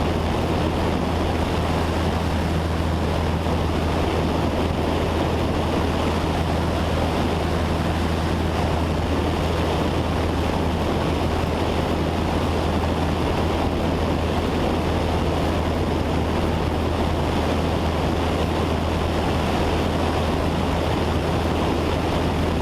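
Steady drone of a Cessna 172 Skyhawk's piston engine and propeller in flight, heard inside the cockpit: a constant low hum under a rush of air noise.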